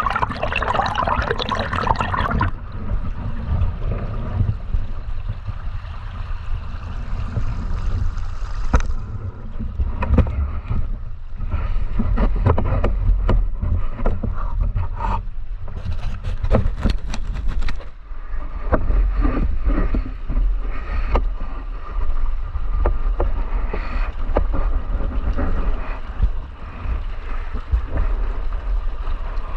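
River water flowing and gurgling, with a steady low rumble and many scattered small clicks and knocks.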